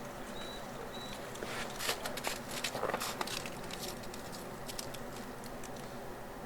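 Outdoor ambience with a run of crackling, pattering clicks for about two seconds in the middle and a couple of faint, short, high chirps in the first second.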